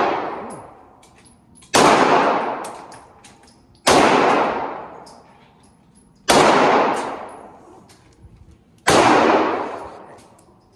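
Four single gunshots about two seconds apart, each followed by a long echoing decay.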